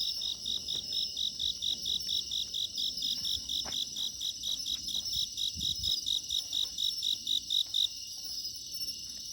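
An insect, cricket-like, chirping in a fast, even series of about five short high pulses a second over a steady high trill. The pulses stop abruptly near the end.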